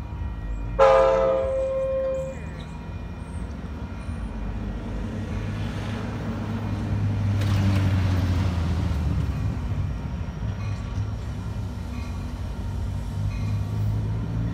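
A train horn sounds one short blast about a second in. The low rumble of the approaching diesel train then grows, loudest around the middle, and carries on steadily.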